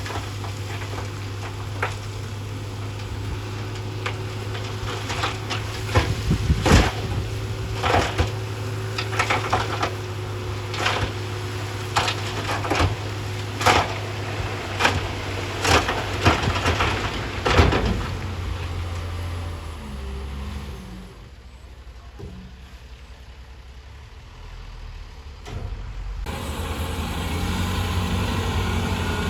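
Diesel engine of heavy earthmoving machinery running steadily, with a string of sharp knocks and clatters of rock through the first two-thirds. Near the end the engine noise drops away for a few seconds, then picks up again.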